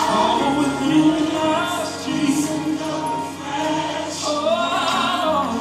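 Gospel song playing, a choir singing long held lines.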